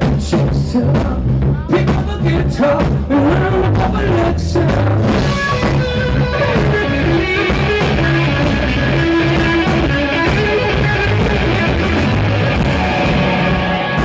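Rock band playing live at full volume: drum kit, electric guitar and a singer's voice. Drum hits dominate for about the first five seconds, then give way to long held notes.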